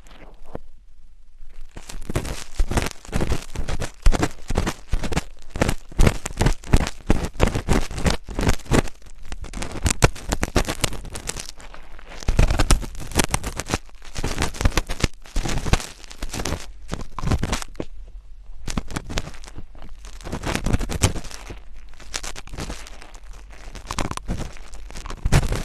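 Close-miked ASMR scratching: dense, rapid crackling and scraping right at the microphone, pausing briefly about a second in and again around eighteen seconds.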